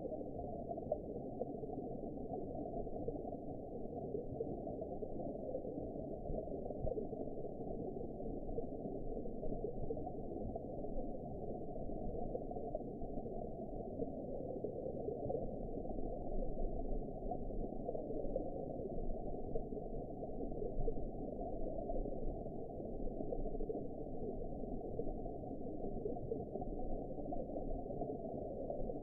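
Steady underwater ambience: a muffled, even wash of low noise, with nothing heard above a low pitch.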